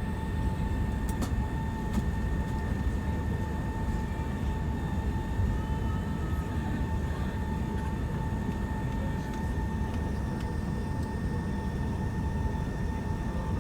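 Cabin noise inside an Emirates Airbus A380 taxiing after landing: a steady low rumble with a steady whine on top, from the engines at idle and the air-conditioning.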